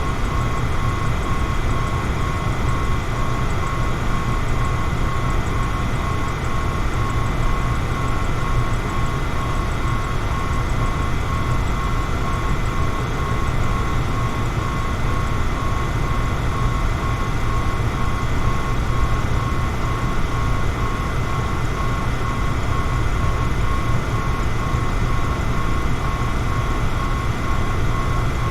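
Electric fan running steadily: an even rush of moving air, heaviest in the low range, with a faint steady motor whine over it.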